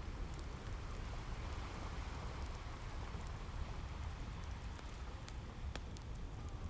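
Wood fire crackling with scattered sharp pops, a couple of louder ones near the end, over a low steady rumble of ocean surf.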